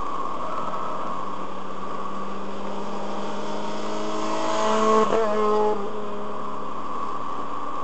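Car driving on a race circuit, heard from inside the cabin as a steady drone. About four seconds in an engine note rises in pitch and grows louder, then breaks off sharply about five seconds in and fades out within a second.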